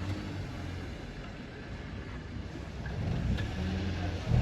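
Toyota Corolla XLi's engine running, a low steady hum that grows louder over the last second or so.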